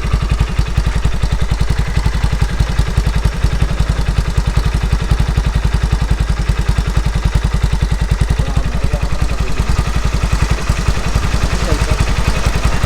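Yamaha Mio Sporty scooter's engine, bored up to 160cc and fitted with a JVT V2.1 aftermarket exhaust, idling steadily with an even, low pulsing exhaust beat.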